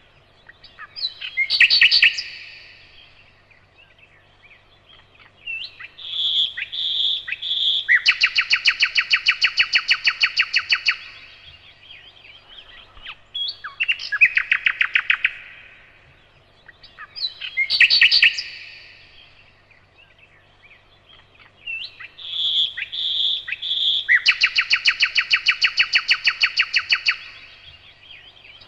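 Nightingale singing loud phrases of rapid repeated notes and long fast trills, separated by pauses of a few seconds. The same run of phrases comes round again about every sixteen seconds.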